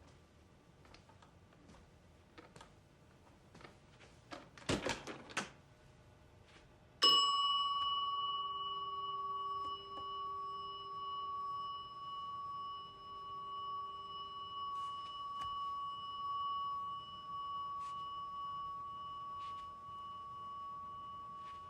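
Reception desk bell struck once, its clear ring hanging on for over a dozen seconds and fading only slowly. Before the strike there are scattered soft clicks and a short cluster of louder knocks about five seconds in.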